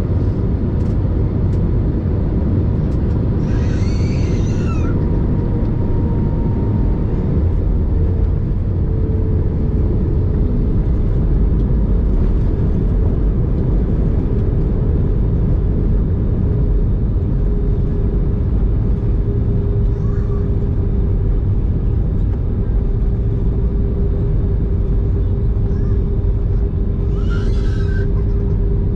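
Airbus A320 cabin noise on the approach and arrival: a loud, steady low rumble of engines and airflow with a faint steady whine that drifts slightly in pitch. Two brief high-pitched sounds stand out, about four seconds in and near the end.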